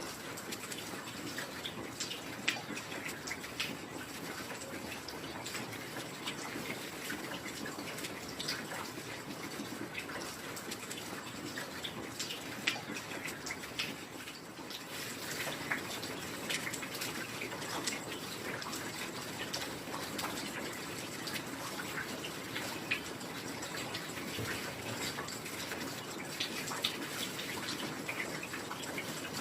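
Heavy rain falling steadily, many individual drops striking sharply over an even hiss.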